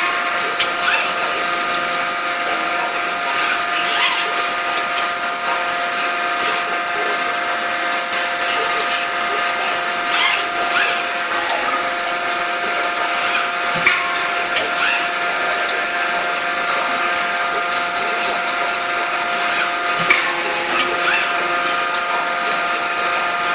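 Forging-shop machinery running steadily: a constant mechanical drone with several held tones, broken by a few short knocks, the sharpest about 14 and 20 seconds in.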